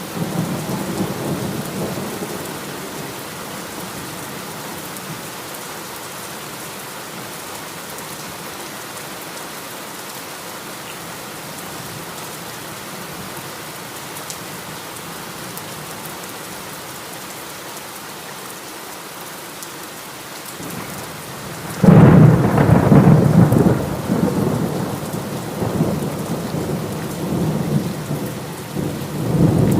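Heavy rain falling steadily in a thunderstorm. A fading rumble of thunder at the start, then about 22 seconds in a sudden loud thunderclap that rolls on in swells to the end.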